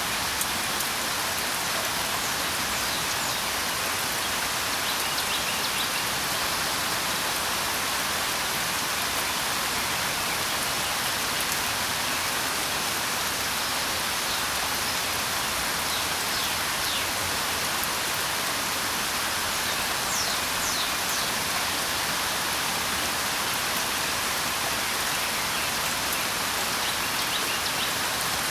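Steady rain falling, with a few brief high bird chirps now and then.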